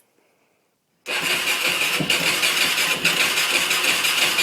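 2004 Yamaha YFZ 450 quad's single-cylinder four-stroke engine being cranked, kicking in suddenly about a second in with a steady pulsing chug. The engine turns over but doesn't catch and run, even with a professionally cleaned and rejetted carburettor.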